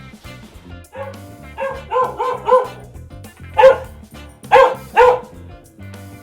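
Dog barking over background music: a quick run of about four short barks about two seconds in, then three louder single barks.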